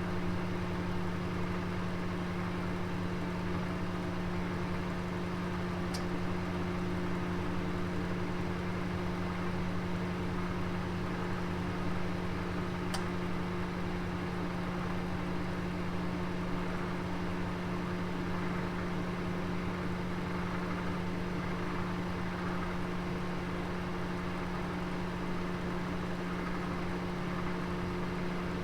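Oven running with a Sunday roast inside: a steady low hum over a soft rushing noise. Two faint high ticks come about six and thirteen seconds in.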